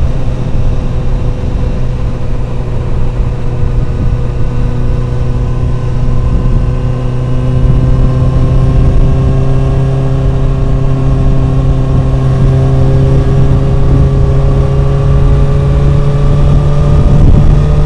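Motorcycle riding at speed, heard through a microphone inside the rider's full-face helmet: a steady engine drone over a rough low wind rumble. The engine pitch creeps slowly upward through the second half as the bike gathers speed.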